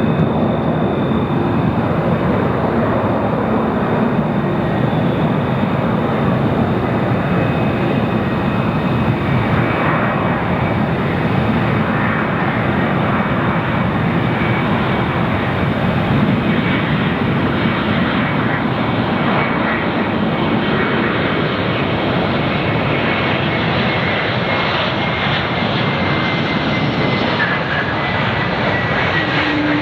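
Airliner jet engines running with a loud, steady roar at close range, with a faint high whine that slowly falls in pitch.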